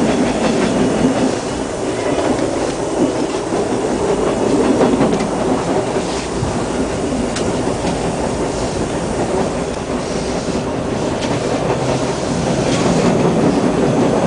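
A Hawker Siddeley H4 subway car running between stations, heard from inside the car: a steady rumble of wheels on rail with scattered clicks from rail joints.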